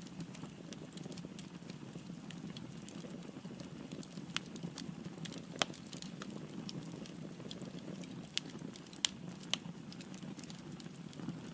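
Firewood burning in a fireplace: a steady low rush of flame with scattered crackling, and a handful of sharper pops from about four seconds in.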